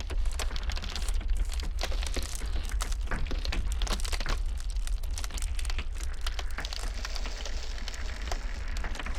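Iceberg ice cracking and crackling in a dense, irregular run of sharp snaps and clicks, over a steady low rumble of blizzard wind.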